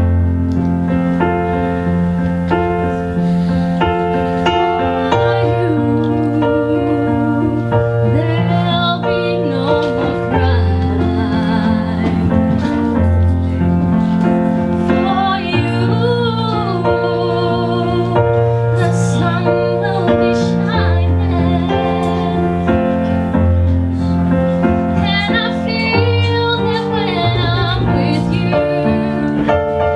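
A woman singing a slow ballad with vibrato over piano accompaniment.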